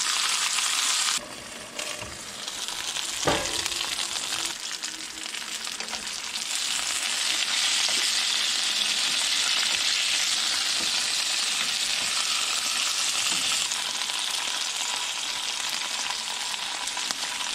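Hungarian hot peppers sizzling in hot bacon grease in a frying pan, a steady hiss. The sizzle drops sharply about a second in, a single sharp clack comes near three seconds, and the sizzle then builds back up, loudest from about six to thirteen seconds.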